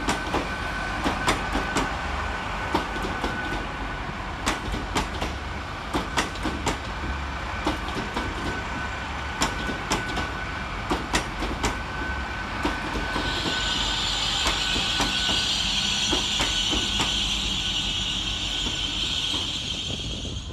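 Great Western Railway Class 800 train moving slowly through the station, its wheels clicking over rail joints and pointwork with a steady whine. A higher-pitched hiss or squeal joins over the last third.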